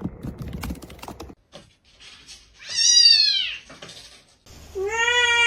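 Domestic cat meowing twice: a loud meow that rises and falls about three seconds in, and a longer, steadier meow starting near the end. A quick run of sharp clicks or taps comes in the first second.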